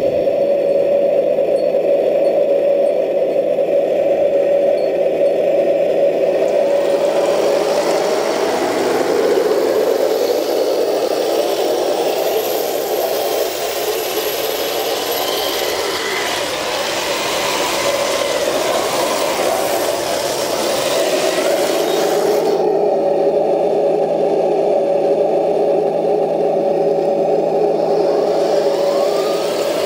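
RC model Leopard tank running on its new drive motor and transmission: a steady mechanical drone, with rattling and scraping added from about 7 to 22 seconds in.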